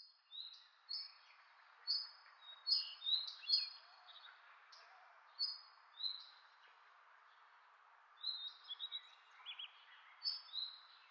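Wild birds chirping: many short, high whistled notes, some in pairs that step down in pitch, coming in clusters with short gaps, over a faint steady hiss.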